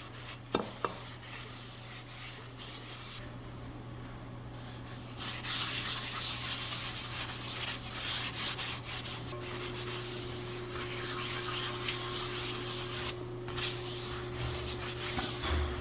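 Excess Crisco shortening being wiped off a Griswold cast iron skillet by hand: a continuous rubbing that grows louder about five seconds in, over a steady low hum.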